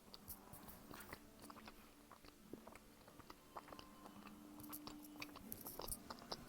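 Close-miked chewing of a pepperoni snack stick: faint, scattered sharp mouth clicks and smacks, busier toward the end.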